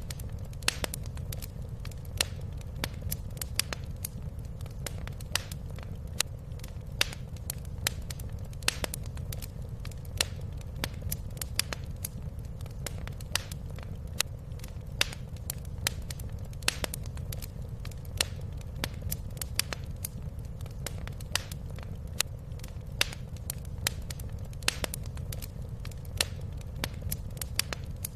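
Wood fire crackling in a fireplace: irregular sharp pops, several a second, over a steady low rumble of the flames.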